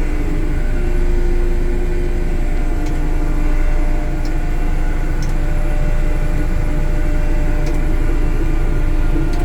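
Cat CS54B compactor's diesel engine running steadily as the machine drives and steers, heard from inside the cab: a constant drone with a few steady pitched tones over a low rumble, and a few faint ticks.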